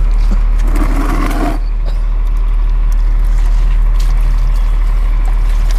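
A loud, steady low hum from a running machine throughout. About a second in there is a brief burst of splashing, spraying water.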